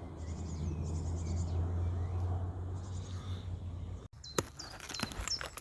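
Small wild birds chirping with short high calls over a low steady rumble. About four seconds in the sound cuts off abruptly, then sharp clicks sound among more chirps.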